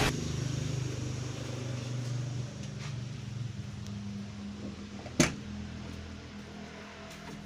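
Mitsubishi Jetstar pickup engine dropping back from a rev to a steady idle, its valves freshly adjusted to run smoothly. A single sharp click about five seconds in.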